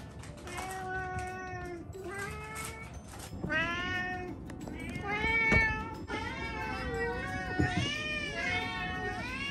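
Several house cats meowing over one another, begging for their breakfast; the calls grow denser after the first few seconds. Two short knocks sound through the calls, about halfway and near the three-quarter mark.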